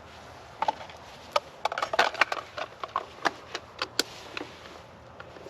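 Small campfire of sticks catching, crackling and popping in quick, irregular snaps.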